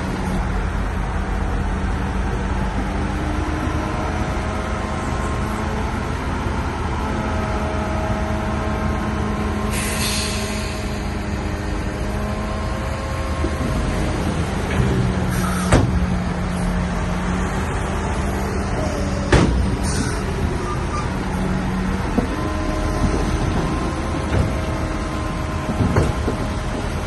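Shantui bulldozer's diesel engine running under load, its pitch rising and falling as the revs change. A few sharp clanks come through, and there is a brief hiss about ten seconds in.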